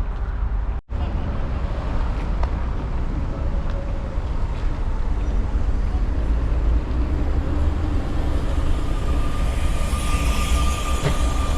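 DPL-1 diesel train running with a heavy, steady low rumble. The sound drops out for an instant about a second in, and a thin steady whine joins it in the last few seconds.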